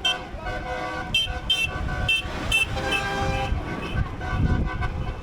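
Vehicle horns tooting repeatedly: a string of short, high-pitched beeps over longer, lower held horn notes.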